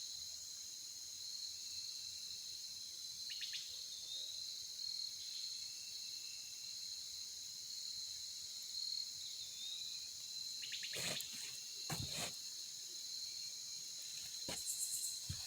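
Steady evening insect chorus, a continuous high-pitched trilling drone, broken by a few short sharp chirps or clicks about three seconds in, twice around the eleven-to-twelve-second mark, and again near the end.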